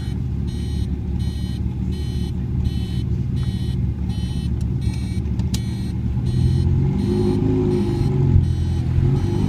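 TVR Cerbera 4.2's V8 engine running, then revving up with rising pitch for a couple of seconds toward the end, with a brief sharp knock near the peak.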